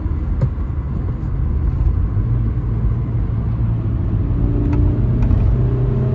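Toyota Carina E 1.6 16V four-cylinder engine pulling while the car drives, over a steady low road rumble. The engine note firms up about two seconds in and rises slightly towards the end as revs climb.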